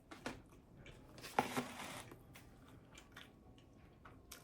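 A bite into a toasted tuna melt sandwich close to the microphone, with a crunch about a second and a half in, followed by quiet chewing clicks.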